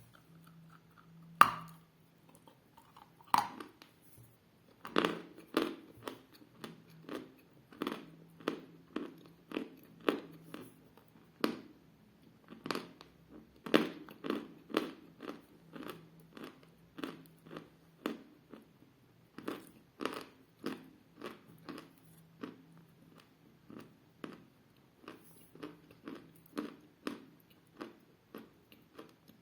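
Dense, hard edible clay being bitten and chewed close to the mouth. Two sharp crunching bites come first, then a steady run of short, crisp chewing crunches about one and a half a second, over a faint low hum.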